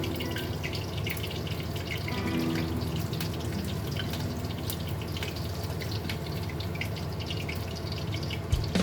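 Water running from a tap into a sink, with drips and splashes throughout. Faint instrumental music sits underneath.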